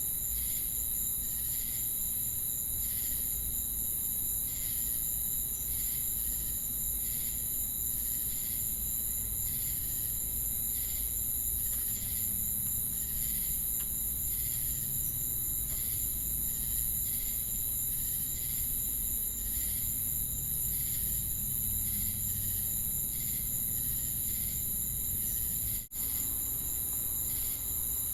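Chorus of crickets and cicadas: a steady, high-pitched insect trill under a slower pulsing chirp that repeats a little more than once a second. The sound cuts out for an instant near the end.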